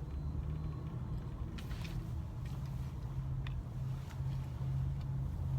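Low, steady hum of a car idling, heard from inside the cabin, with a few faint clicks.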